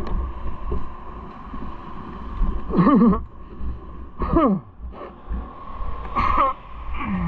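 Four short, wordless vocal sounds, each falling in pitch, over a steady low rumble and a thin steady hum.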